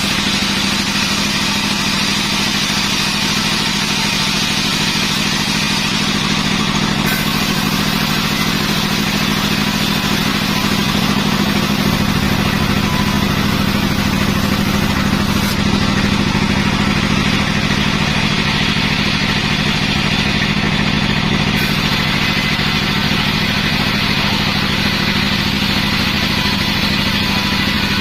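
Sawmill machinery running steadily with a constant engine-like drone.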